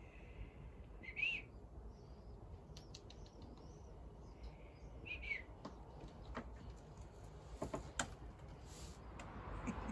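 A bird chirping: two short chirps about four seconds apart, with a few faint clicks between them.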